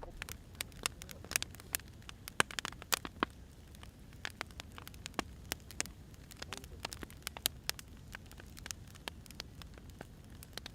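Wood fire crackling, with irregular sharp pops and snaps over a low hiss. The pops come thickest in the first few seconds and thin out after that.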